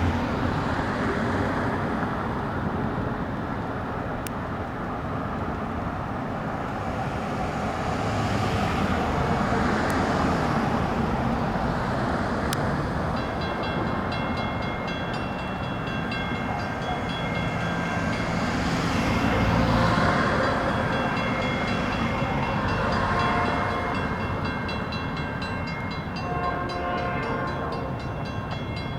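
Metra commuter train passing at speed on the rails, a steady rumble that swells and eases as the cars go by, with high steady ringing tones coming in about halfway through.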